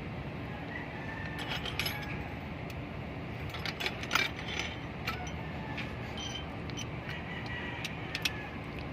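Hand tools clinking and clicking on metal engine parts in scattered, irregular knocks, a sharper clink about four seconds in, over a steady low rumble.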